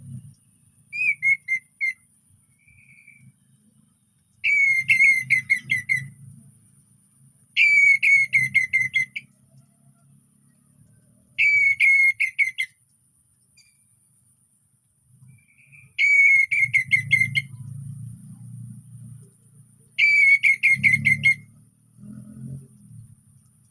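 Orange-headed thrush (anis merah) singing: six short, loud whistled phrases of rapid notes a few seconds apart, each stepping down in pitch.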